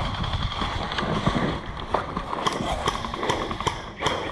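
Footsteps and the rattle of carried gear as an airsoft player moves on foot, with scattered sharp clicks and snaps, more of them in the second half.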